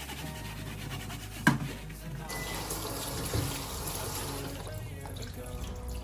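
Tap water running into a kitchen sink while fridge and freezer racks are washed, with one sharp knock about a second and a half in.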